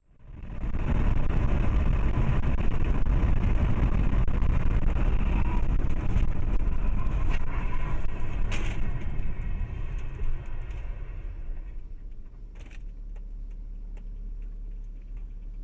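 A car driving, recorded by a dash camera: deep, steady road and engine noise that eases off after about eleven seconds, with a sharp knock about two-thirds of the way through and a fainter one a few seconds later.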